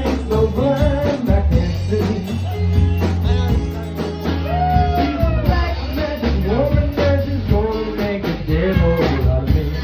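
A band playing a rock song, a singer's voice over steady bass, guitar and drums.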